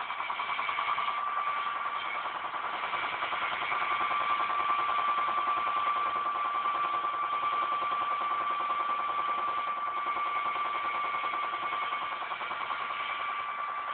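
Washing machine in its spin cycle: a steady whine over a fast, even rattle that does not change. The owner traces the machine's knocking during spin to its shock absorbers shifting on the bushings of their mounting bolts.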